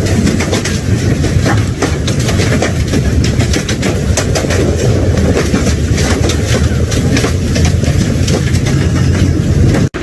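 Violent storm wind roaring, with a deep steady rumble and many sharp crackles throughout. It cuts off abruptly near the end.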